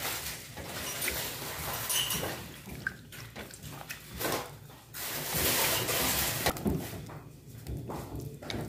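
Cheese and white wine heating in a pan for fondue, the liquid simmering with a bubbling hiss and small pops.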